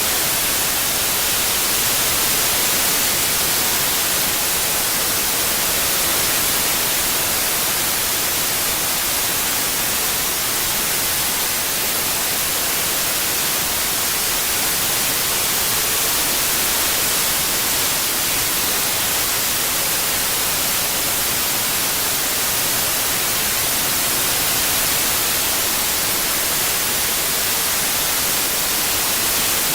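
Steady, unbroken white noise: an even hiss, strongest in the high frequencies, played as a tinnitus-masking sound.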